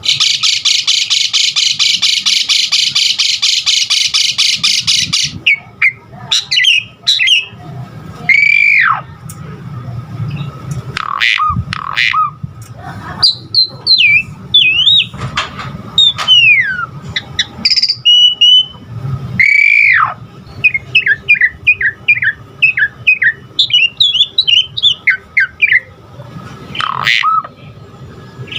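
Javan pied starling (jalak suren) singing a long, varied song. It opens with about five seconds of fast, harsh, rattling chatter, then gives loud whistles that glide up and down, mixed with squawks, and near the end a run of quick short chirps.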